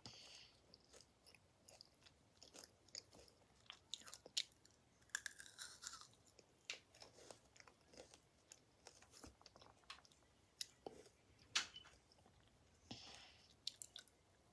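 Chewing with crunches: irregular small clicks and crackles, quiet overall with sharper crunches now and then. A brief falling squeak about five seconds in.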